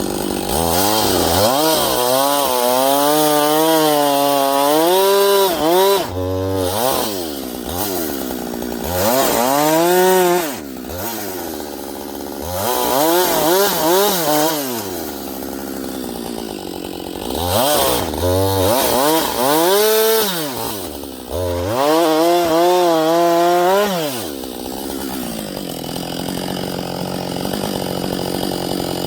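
Husqvarna 562 XP two-stroke chainsaw revving to full throttle and cutting about six times, its pitch wavering under load and dropping back to idle between cuts, then idling steadily near the end. It is cutting with a dull chain that should have been replaced.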